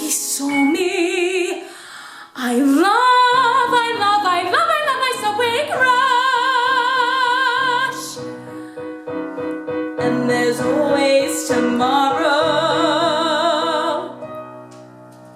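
A girl's voice singing the final phrase of a musical-theatre song over piano, sliding up into long held notes with strong vibrato. The music dies away near the end.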